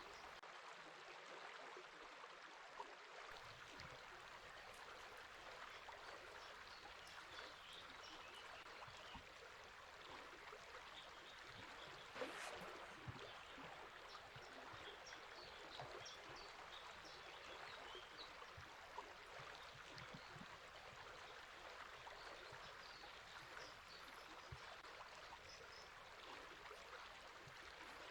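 A river flowing steadily with small birds chirping faintly over it, and a single brief tap about twelve seconds in.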